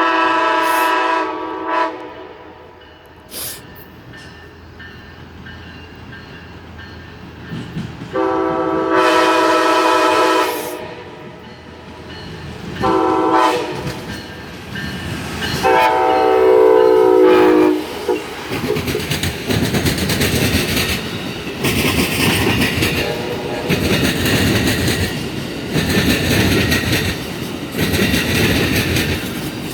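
Amtrak passenger train's horn: a blast ending near the start, then a long, a short and a long blast, which counts as a horn salute. The train then passes close and fast, its wheels clattering over the rail joints in an even rhythm.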